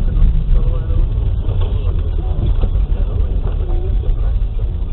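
Steady low rumble of a car's engine and tyres on the move, with faint voices over it.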